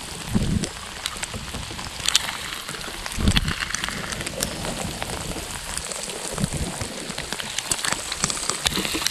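A sudden rain shower: steady falling rain with many separate drops clicking, and two low thumps, one about half a second in and one about three seconds in.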